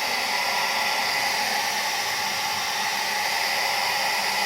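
Handheld electric hair dryer running steadily on a high setting, its motor and fan giving a constant airy noise as it blows upward to hold a ball floating in the air stream.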